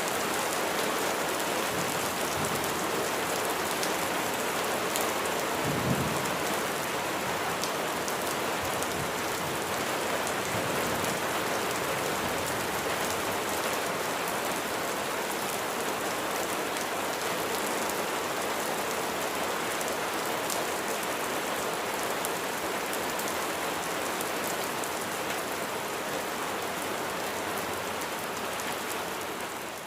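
Steady heavy rain falling and splashing on surfaces, an even hiss with scattered drop patter, with one brief low thump about six seconds in.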